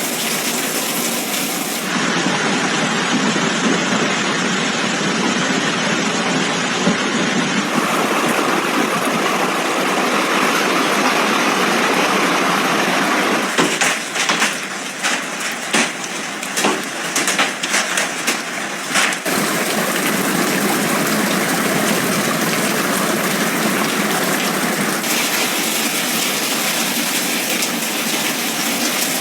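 Heavy storm rain pouring down, a steady hiss in several short clips cut together. In the middle stretch come irregular sharp hits and patters.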